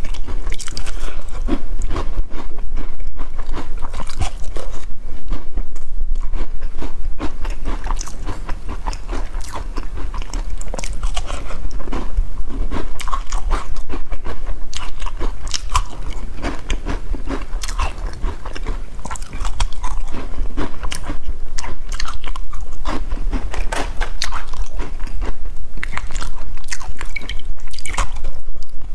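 Close-miked crunching and chewing of crisp black-sesame-topped biscuits: a dense, continuous run of crackling bites and chews, a little softer in the middle.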